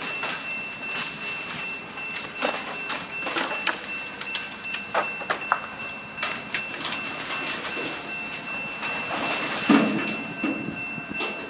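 Heavy equipment clearing demolition debris: irregular clanking, knocking and scraping of wood and rubble over a steady mechanical noise, with a louder thump near the end.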